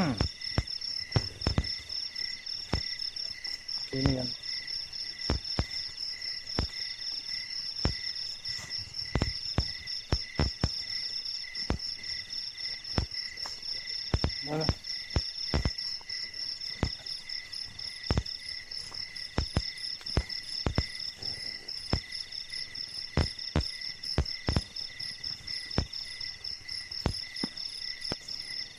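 A night chorus of crickets and other insects: a steady high trill with lower chirps pulsing at an even rate, one of them coming and going in stretches of about a second. Frequent short knocks or thumps, a second or so apart, sit over it and are the loudest sounds.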